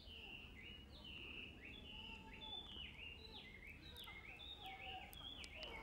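Faint bird calls: a quick, continuous series of short high chirping notes, several a second, each sliding in pitch, over a low steady rumble of background noise.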